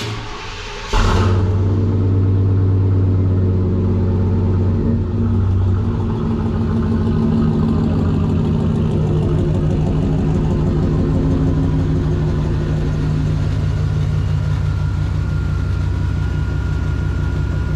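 A vehicle engine starting: a brief crank, catching about a second in, then running at a steady idle that settles slightly lower after the first few seconds.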